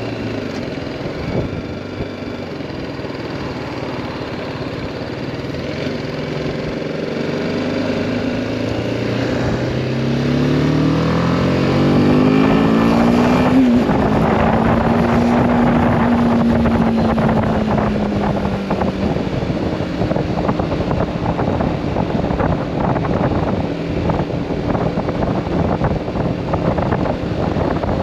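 BMW G310R's single-cylinder engine riding in traffic: it starts low, then rises steadily in pitch under acceleration for several seconds before settling, while wind noise on the camera microphone grows louder in the second half.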